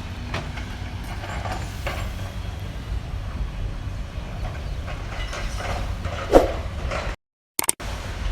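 Heavy excavator's diesel engine running with a steady low rumble and scattered clanks and knocks of demolition work; one louder knock about six seconds in. The sound cuts out completely for about half a second near the end.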